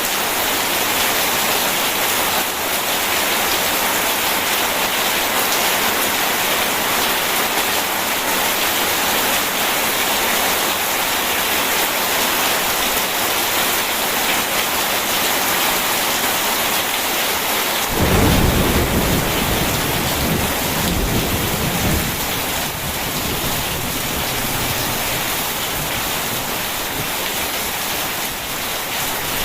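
Steady heavy rain hissing, with a roll of thunder breaking in suddenly about two-thirds of the way through and rumbling low for a few seconds before fading back under the rain.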